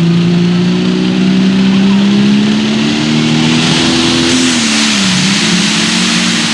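Turbocharged diesel engine of a limited pro stock pulling tractor running hard under load, its pitch climbing slowly, then sagging briefly about five seconds in before it steadies again. A rushing hiss grows louder from about four seconds in.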